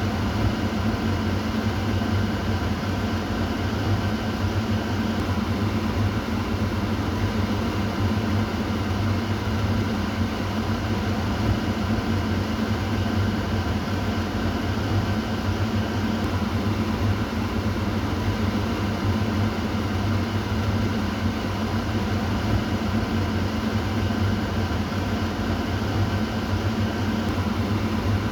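Kitchen exhaust fan running at a steady speed: an even low hum with a rush of moving air over it.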